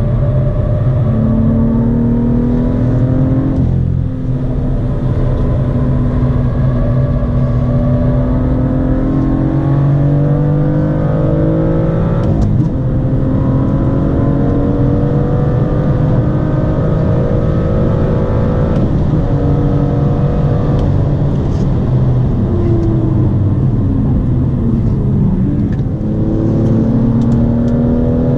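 BMW M2's turbocharged 3.0-litre straight-six with a performance exhaust, heard from inside the cabin, pulling hard on track. The revs climb steadily and drop sharply at gear changes about four times, with the revs falling under a lift-off shortly before the last change.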